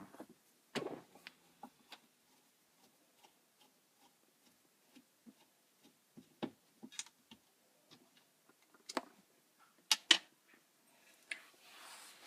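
Scattered small clicks and ticks of a screwdriver and screws being worked out of plastic dashboard trim, with a few sharper clacks about a second in and again around nine and ten seconds in.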